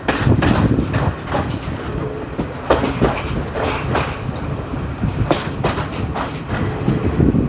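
A passenger train running along the track, heard from on board: a steady low rumble with irregular clacks and knocks from the wheels over the rails.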